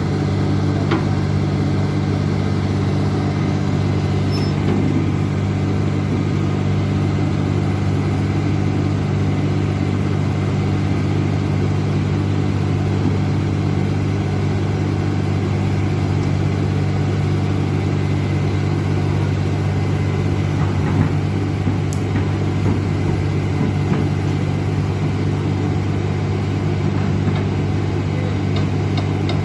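Large diesel engine of heavy equipment running steadily at a low, even speed, with a few faint clicks over it.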